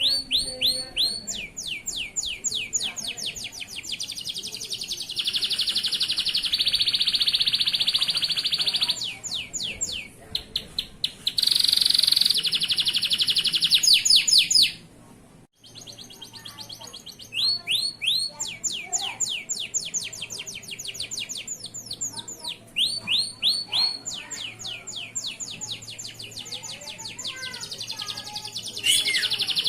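Male domestic canary (local Indonesian breed) singing a continuous song of rapid repeated-note trills and buzzy rolls, changing from one trill to the next every second or two, with a brief break about halfway through.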